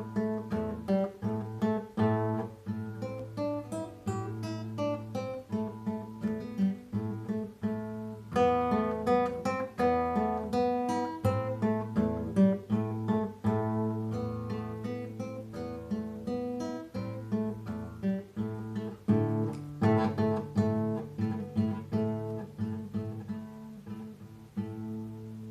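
Solo classical guitar played fingerstyle: fast plucked notes over a repeating bass note, growing quieter near the end as the last notes die away.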